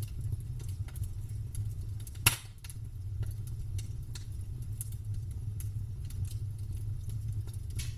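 Wood campfire crackling, with scattered small pops over a steady low rumble and one loud pop a little over two seconds in.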